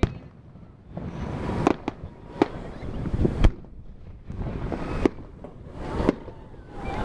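Fireworks display shells bursting overhead: about seven sharp bangs at uneven intervals, the loudest about three and a half seconds in, with a rumbling echo carrying on between them.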